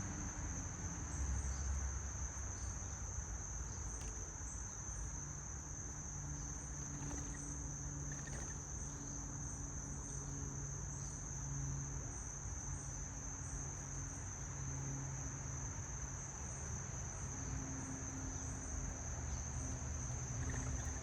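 Steady high-pitched insect trill that does not break, over a low steady hum.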